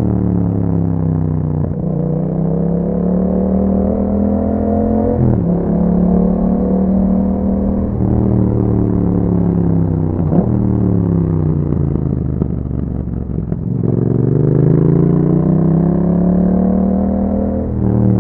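Yamaha MT-07's parallel-twin engine through an Akrapovic exhaust, accelerating hard with the pitch climbing and dropping sharply at each upshift, several times in a row. Past the middle the revs fall away as the bike slows, then it pulls up through the revs again, with another drop near the end.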